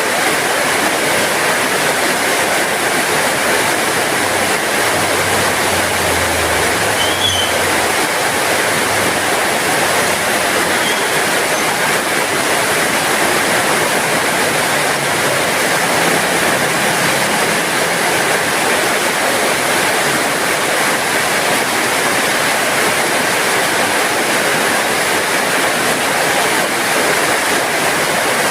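Steady heavy rain falling, a dense even hiss. A faint low hum rises under it for a few seconds about a fifth of the way in, and again around the middle.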